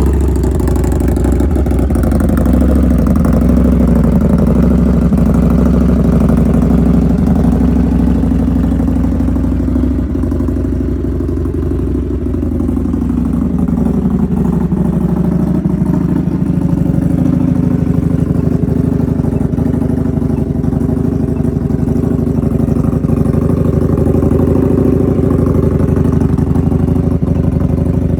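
2025 Indian Scout Bobber's V-twin engine idling through an aftermarket Freedom exhaust, the note steady except for a slight sag in pitch and loudness for a few seconds near the middle before it picks back up.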